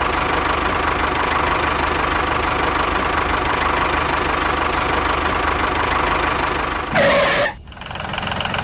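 Small engine running steadily with a dense, rough chug. About seven seconds in a brief louder, higher burst cuts in, then the sound drops away suddenly and builds back up.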